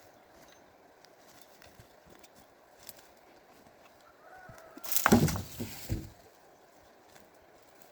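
A chicken gives a short call about four seconds in, then a loud, harsh squawk lasting about a second.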